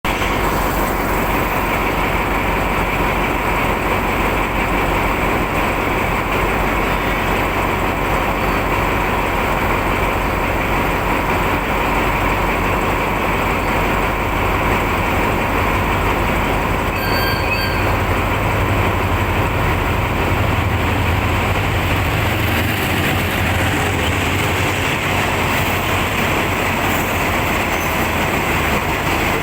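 Express passenger train No. 37 running steadily along the track, with a continuous noise of wheels on rails and the train's running gear. The low rumble grows stronger for a few seconds past the middle.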